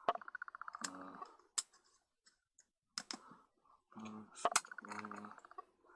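Sticky tape pulled off a roll in two rasping, buzzing pulls, with small sharp clicks of lens parts being handled.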